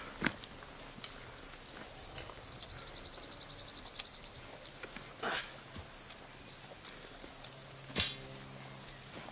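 Songbirds singing: repeated short chirps and a fast trill, over a few sharp clicks and knocks, with one louder crack about eight seconds in.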